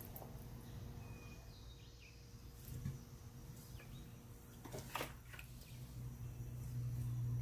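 Low steady hum that grows louder near the end, with a few sharp light clicks, the strongest about five seconds in.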